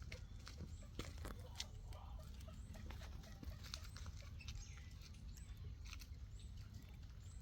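Faint, high chirps of small birds, scattered among short sharp clicks, over a steady low rumble of wind.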